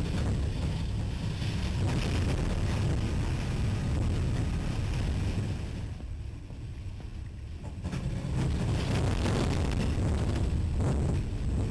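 A moving train's heavy low rumble mixed with wind noise on the microphone, easing for a couple of seconds past the middle, then returning.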